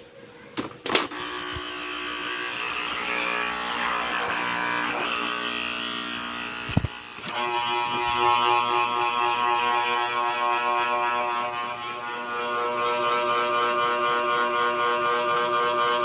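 Small electric motor of a mini ceiling fan running with a steady buzzing whir after a couple of clicks about a second in. About seven seconds in there is a click and the hum changes to a different, steadier pitch.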